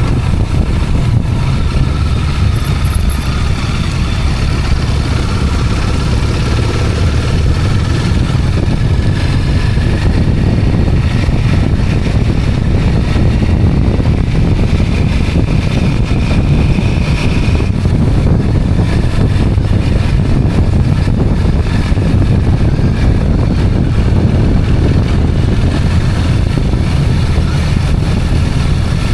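Motorcycle engine running steadily while riding, a loud continuous low rumble with no breaks.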